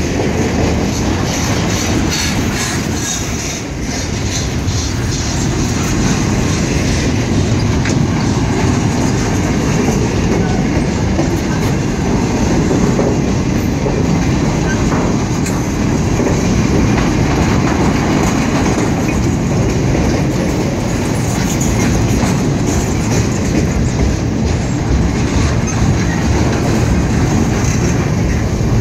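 Container cars of a CSX intermodal freight train rolling past close by: a steady, loud rumble of steel wheels on rail with clickety-clack over the rail joints.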